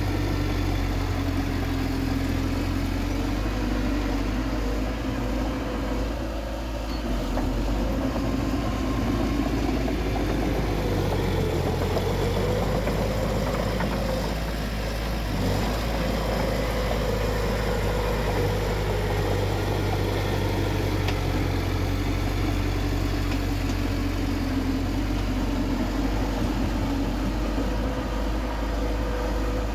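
Bulldozer's heavy diesel engine running steadily, its pitch shifting up and down a little about halfway through.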